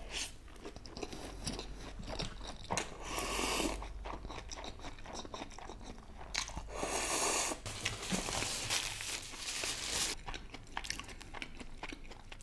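Close-miked chewing of a big mouthful of Samyang Buldak instant noodles: steady wet, clicky mouth noises, with two louder rushes of noise about three and seven seconds in.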